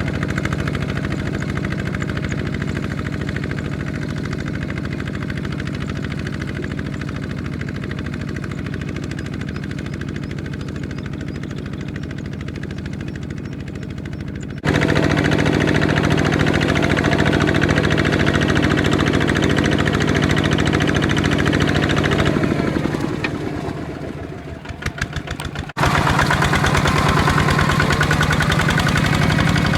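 Tractor engine running steadily under load. It suddenly gets louder about halfway through, fades briefly a few seconds before the end, then comes back at full level.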